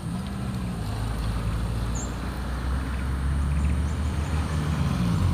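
Heavy truck's diesel engine running under load on a steep grade. The engine note rises and falls and grows louder as the truck approaches.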